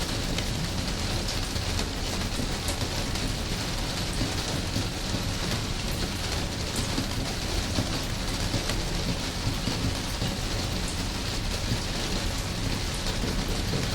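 Steady heavy rain falling on a surface, a dense hiss with scattered drop ticks over a continuous low rumble.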